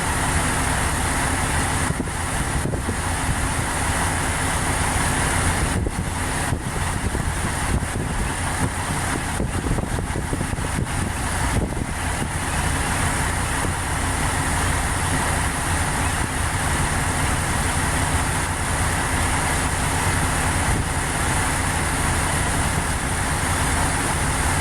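Strong wind blowing, a steady loud rushing with a heavy low rumble that fluctuates as gusts buffet the microphone.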